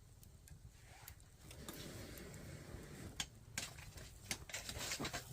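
Campfire crackling, with irregular sharp pops from the burning wood that come thicker and louder over the last couple of seconds, over a low steady rumble of the fire.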